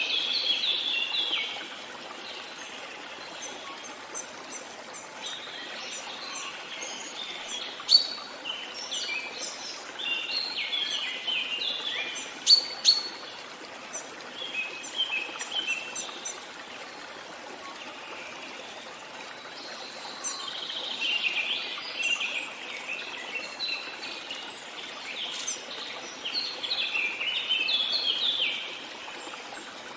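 Songbirds singing in bursts of rapid chirps that come and go every few seconds, over a steady hiss of running water.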